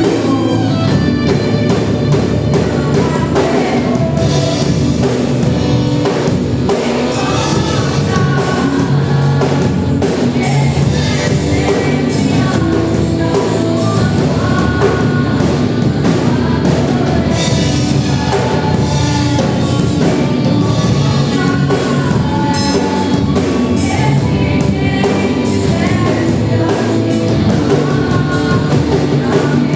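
Live church worship band playing a song, singing over a drum kit that keeps a steady beat.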